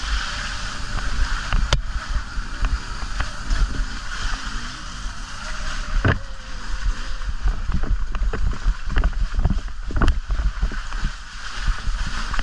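Ride on an electric dirt bike over muddy ground heard from an onboard camera: steady wind rumble on the microphone, with frequent knocks and rattles from the bumps and a louder knock about six seconds in and again near ten seconds.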